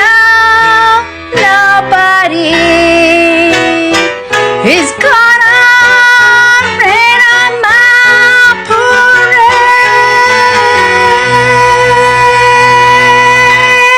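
A woman's voice singing the closing phrase of a show tune over a band accompaniment. She ends on a long held high note with vibrato from about ten seconds in.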